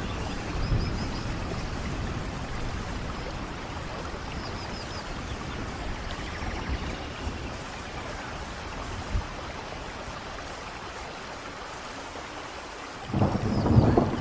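Steady heavy rainfall in a rainforest, with a few faint high chirps. A low rumble of thunder rises suddenly near the end.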